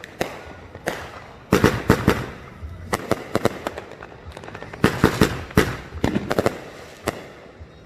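Fireworks going off: many sharp bangs and crackles in irregular clusters, several in a quick run near the middle.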